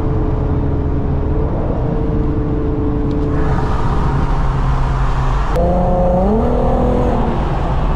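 Car engine and road noise at highway speed. A rushing noise grows louder about three seconds in, and about five and a half seconds in the engine note rises as the car accelerates.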